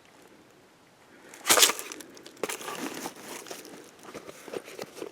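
Footsteps crunching through dry leaves and brush on the forest floor: one loud crunch about a second and a half in, then lighter scattered crackling and rustling.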